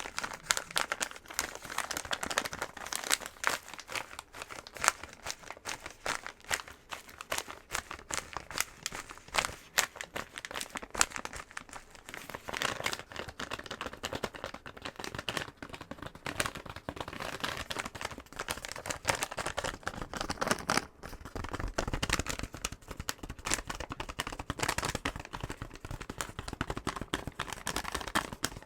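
Fingernails tapping and scratching fast on a box: a dense, unbroken run of quick clicks and scratches.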